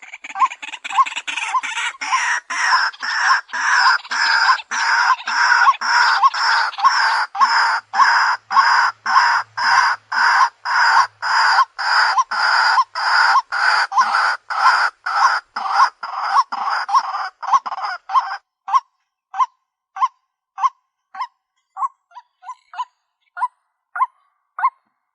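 White-breasted waterhen calling: a fast, even run of rough repeated notes, two to three a second, that about 18 seconds in thins to a slower series of single, clearer notes about two a second.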